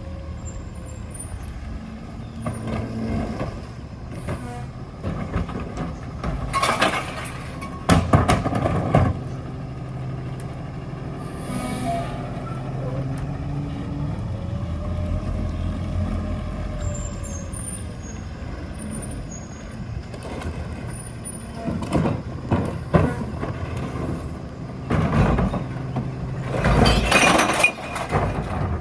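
Ford 750 rear-loader garbage truck with a Heil body, its engine running steadily, broken by several loud bursts of noise a few seconds long, twice early on and three times near the end.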